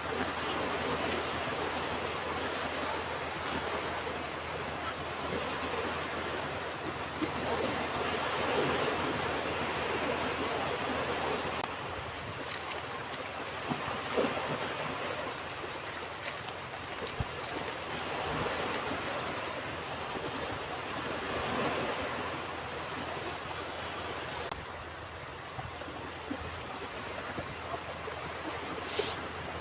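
Ocean waves washing onto a beach, a steady rushing surf that swells and ebbs every few seconds. A brief sharp hiss comes near the end.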